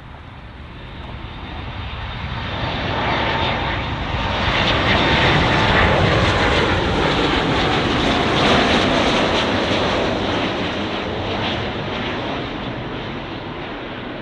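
Boeing 737 MAX 8 jet, with CFM LEAP-1B engines, coming in to land and passing close by. The engine noise builds, peaks in the middle, then fades, with an engine tone falling in pitch as it goes past.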